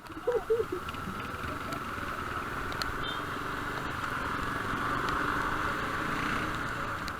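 Motorcycle running at riding speed, with a steady rush of wind over the rider's microphone. A few short pitched chirps come about half a second in.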